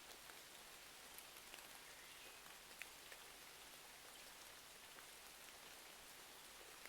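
Faint, steady rain, an even hiss with a few scattered small ticks.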